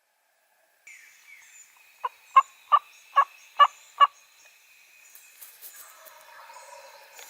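Wild turkey yelping: a run of six short, raspy, evenly spaced notes, about two and a half a second, starting about two seconds in.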